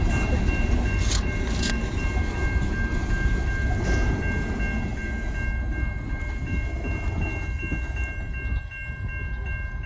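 Loaded coal hopper cars of a freight train rolling past with a heavy low rumble and a couple of knocks from the wheels and couplers, with steady high-pitched tones over it. The rumble eases off, dropping lower near the end.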